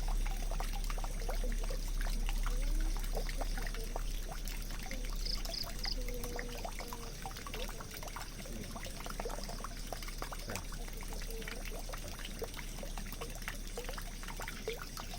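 Water running into a drain, trickling and pouring steadily with many small dripping plinks.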